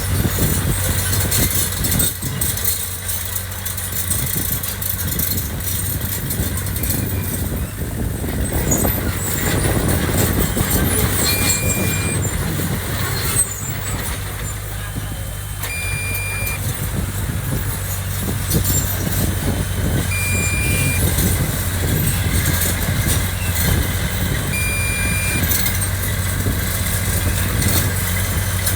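Diesel engine of heavy construction machinery running steadily, with a short high-pitched beep repeating about every four to five seconds from partway through.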